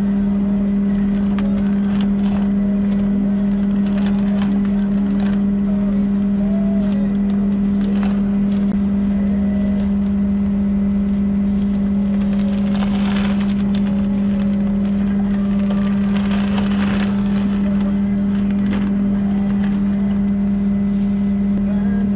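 Tractor diesel engine running at a steady speed, a loud even drone, with scattered clicks and knocks and two brief noisy surges about halfway through.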